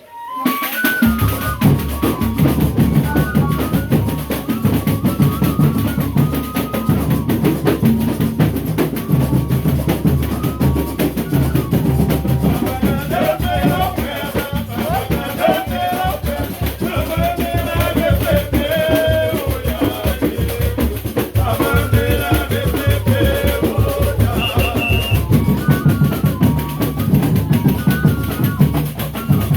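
Folia de Reis music starting suddenly and loudly: a steady, driving drum beat with melody instruments over it.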